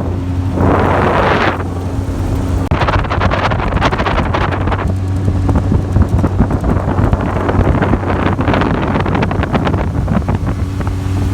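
A fishing boat's motor running with a steady low hum, while wind buffets the microphone in loud gusts about a second in, from about three to five seconds, and again near the end.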